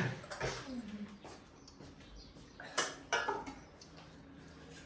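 Tableware clinking during a meal: a sharp clink about three seconds in, with quieter plate and cutlery handling around it.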